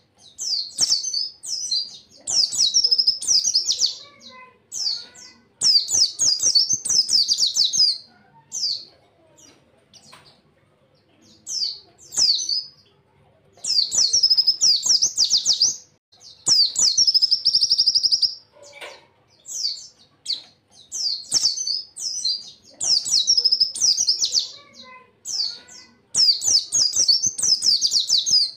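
White-eye (pleci) singing in loud, high-pitched bursts of rapid chirps and trills, each burst lasting a second or two, with short pauses between them.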